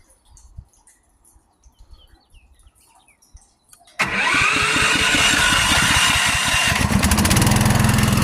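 Gas-engine water pump starting automatically when its float switch is triggered: after a few seconds of faint handling clicks, the engine starts suddenly about four seconds in, turns over in quick regular pulses for a few seconds, then settles into a steady run.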